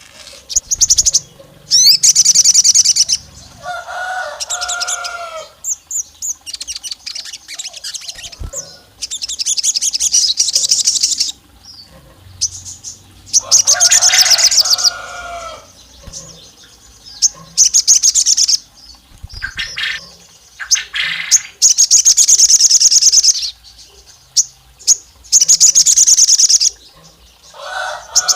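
A sogon songbird singing loudly in repeated bursts of fast, high trills about a second long, every few seconds, with a few lower, fuller calls among them. This is a lure recording meant to sound like a female calling, to provoke male birds into singing.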